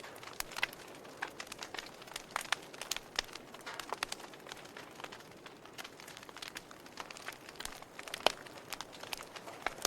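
Wood fire burning in a fireplace, crackling with irregular sharp pops over a soft hiss, with one louder pop about eight seconds in.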